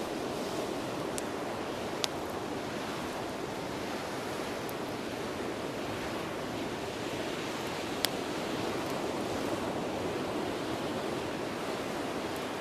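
Beach bonfire burning, with a few sharp pops of burning wood (the loudest about two seconds and about eight seconds in) over a steady rushing noise.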